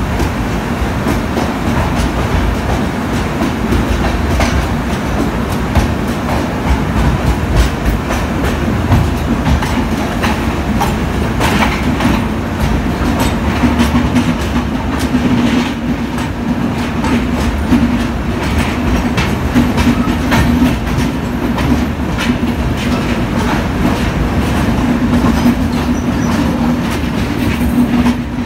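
Train running at speed through a tunnel: a loud, steady rumble of wheels on rails with scattered knocks, and a low steady hum that grows stronger about halfway through.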